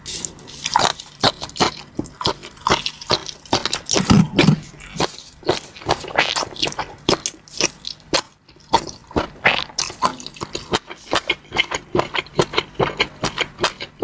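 Close-miked ASMR eating sounds: a person chewing and biting food, with wet, sharp mouth clicks coming several times a second and a louder bite about four seconds in.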